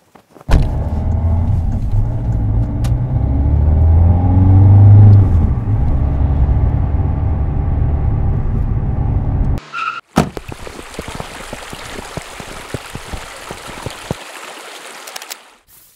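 A car engine comes in suddenly and runs with a deep rumble, its pitch rising and falling as it revs, then cuts off abruptly after about nine seconds. It is followed by a steady rushing hiss with scattered clicks that fades out near the end.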